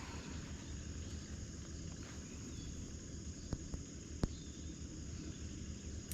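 Riverside ambience: a steady high-pitched insect trill over a low rumble, with a few sharp clicks from fishing tackle being handled about three and a half and four seconds in.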